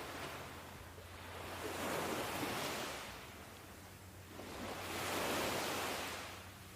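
Ocean surf: waves washing in and drawing back, rising and falling twice at about three-second intervals.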